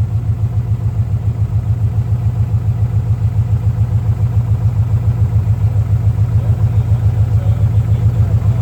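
Freshly rebuilt Chevrolet 350 small-block V8 in a Monte Carlo SS idling after its first fire-up, with a steady low rumble and an even pulsing exhaust beat.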